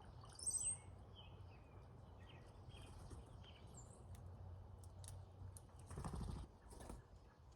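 Brown-headed cowbirds calling at a feeder: a loud, very high squeaky whistle about half a second in, then scattered short chips and gurgling notes. A short rushing noise comes about six seconds in.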